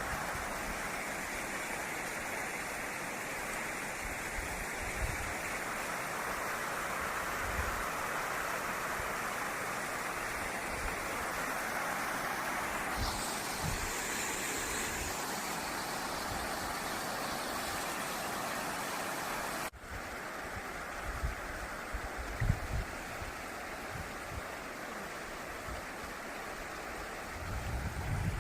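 Steady rush of falling water from a waterfall, with low buffeting thumps of wind on the microphone; the sound changes abruptly about two-thirds of the way through.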